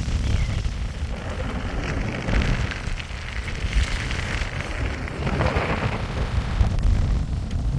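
Wind buffeting the microphone outdoors: a rough, fluttering low rumble with a rushing hiss that swells and eases.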